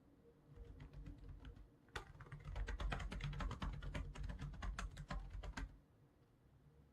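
Typing on a computer keyboard: a few scattered keystrokes, then a fast run of typing for about four seconds that stops abruptly near the end.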